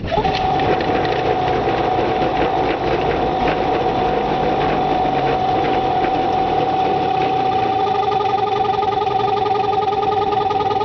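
Outboard boat motor running steadily at idle on its first start after winter storage.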